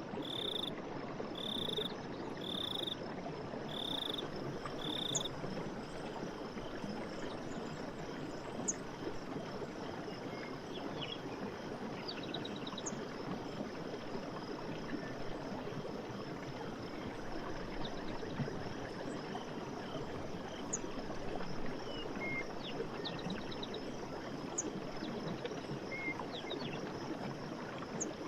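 Night forest ambience of frogs and insects calling. A run of five short, evenly spaced high calls comes in the first few seconds, then scattered chirps and clicks follow over a steady rushing hiss.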